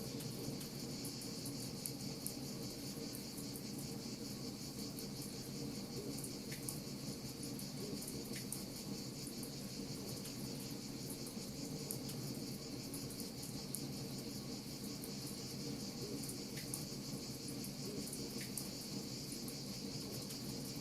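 Crickets chirping steadily over a low, even rumble, with frequent faint crackling ticks from a wood fire.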